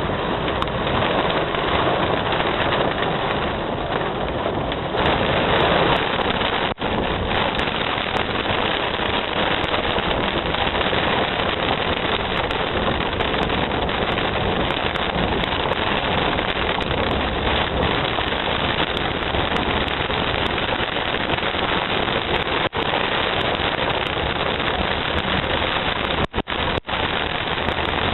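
Heavy rain pouring in a steady, dense hiss, with a few very brief cut-outs in the recording near the end.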